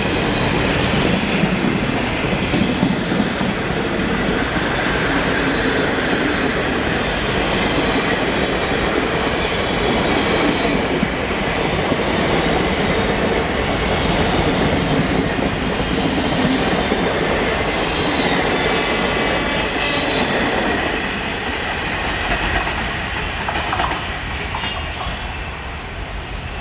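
Passenger train rolling past, wheels clattering over the rail joints with a steady rumble, fading over the last few seconds as the train moves away.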